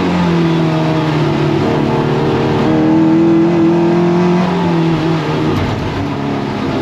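Toyota MR2 race car's engine under racing load: the pitch dips, holds a strong steady pull through the middle, drops about four and a half seconds in, then climbs again near the end as the car lifts and accelerates through the corners.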